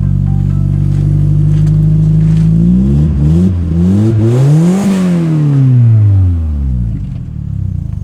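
Straight-piped BMW E46 320d turbo-diesel engine idling, then revved once: the engine note climbs for about two seconds from roughly three seconds in and falls back to idle.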